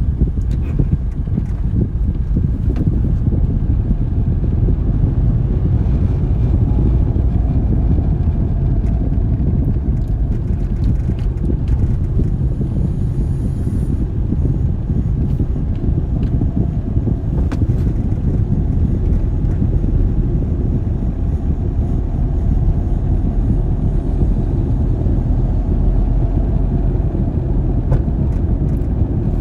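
Steady rumble of a car driving along a road: engine and tyre noise.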